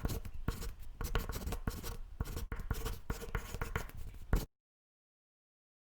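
Close rustling, scraping and rapid small clicks of objects being handled near the microphone, cutting off abruptly to dead silence about four and a half seconds in.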